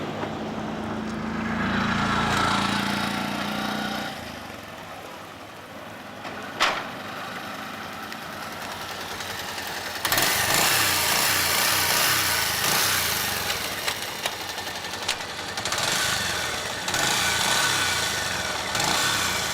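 Single-cylinder engine of a Bajaj Pulsar 150 motorcycle running on the move, its steady note clearest for the first few seconds. A sharp click comes about six and a half seconds in, and from about ten seconds a louder rushing noise takes over.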